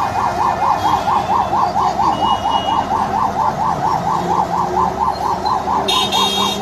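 Emergency vehicle siren wailing in a fast warble, its pitch swinging up and down about five times a second. A brief, higher-pitched tone cuts in near the end.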